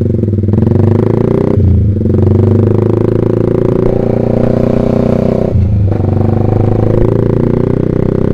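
Yamaha Vixion single-cylinder motorcycle engine running through a Proliner TR1 R aftermarket exhaust while riding, a steady exhaust note that briefly drops out twice.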